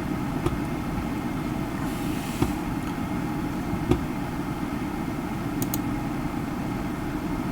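Steady low background hum, with a few faint small clicks.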